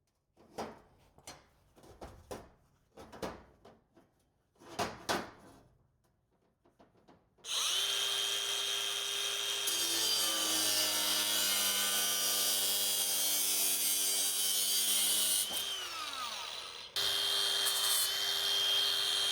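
A few scattered knocks and clunks of metal being handled, then an electric power tool starts about seven seconds in and runs at a steady speed with a high whine. Near the end it winds down with a falling pitch and is started again straight away.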